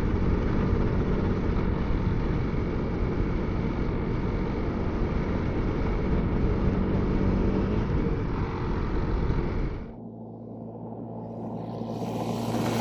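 Riding noise of a Honda CRF300L single-cylinder dual-sport motorcycle under way, heard through a helmet intercom microphone: wind rush over a steady engine drone. About ten seconds in, the noise drops suddenly to a quieter, steady engine hum, which builds again near the end.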